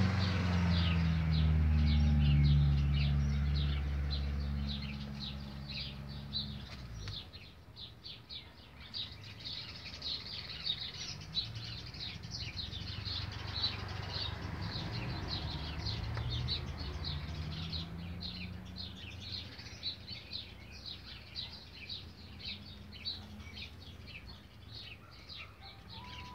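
Birds chirping over and over in short high calls. A low engine hum is loudest at first and fades out about seven seconds in; a fainter hum rises again near the middle.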